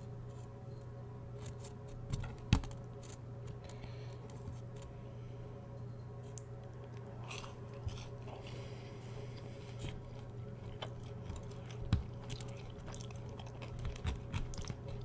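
Close-miked chewing and crunching of a fried onion ring, with scattered wet mouth clicks and one sharp crunch about two and a half seconds in, over a steady low hum.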